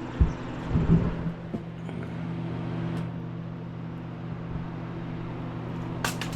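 A steady, low machine hum, as of a running motor, with a few knocks about a second in and a sharp clack near the end.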